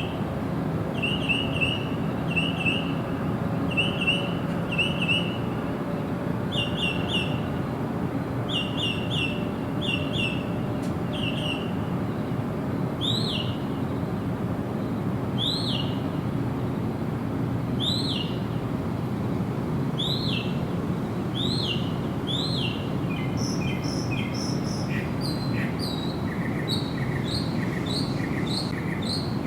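Wild birds calling over a steady background hiss. Short chirps repeat in quick runs at first; from about the middle come single sweeping notes every couple of seconds; near the end a different series of quick paired notes takes over.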